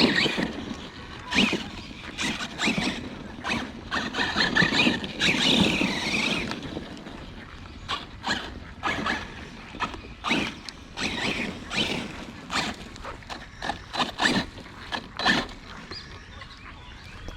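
Arrma Kraton 6S RC car being driven: its brushless motor whines in short, irregular bursts of throttle, with squeals and scrapes as it slides about on wet ground.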